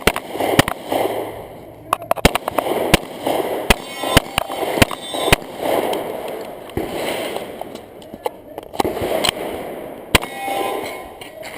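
Pistol shots fired by a competitor running a USPSA action pistol course of fire: about ten sharp shots in quick, uneven succession over the first five seconds, then a gap, then a few more shots near the end.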